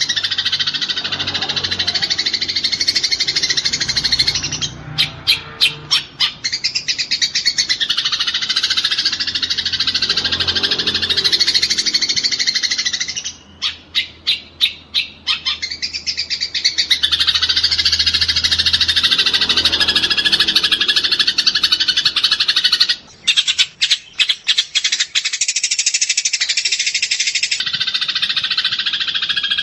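Eurasian tree sparrows chirping and chattering densely as a flock, the sound of sparrows fighting. Three times, at about five, fourteen and twenty-four seconds in, the chirping gives way to a couple of seconds of rapid, stuttering chatter, about four pulses a second.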